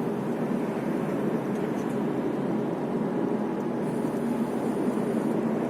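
Steady road and engine noise inside a moving car's cabin at speed.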